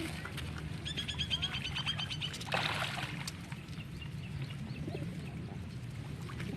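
Birds calling: a quick run of about a dozen short chirps about a second in, then a brief rushing sound, over a steady low hum.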